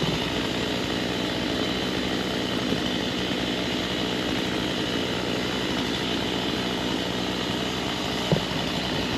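An engine running steadily at one even pitch, with a couple of short knocks near the end.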